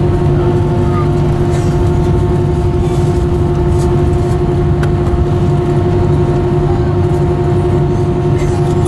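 Airbus A319 jet engines running steadily, heard from inside the cabin: a loud, even rumble with a constant whine over it.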